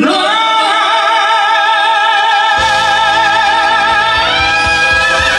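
A singer belting one long, high held note with wide vibrato. Instrumental accompaniment with a low pulsing bass comes in about two and a half seconds in, and the note steps up a little about four seconds in.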